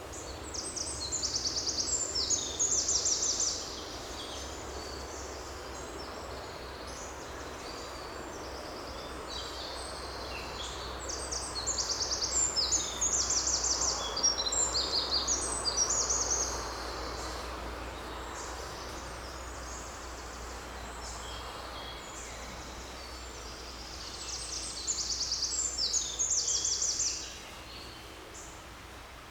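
A songbird singing high, rapid trilling phrases in three bouts of a few seconds each, over steady low background noise.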